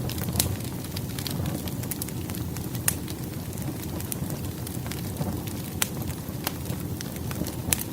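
Firewood burning in a fireplace: a steady low rush of flames with frequent sharp crackles and pops at irregular intervals, a few louder snaps among them.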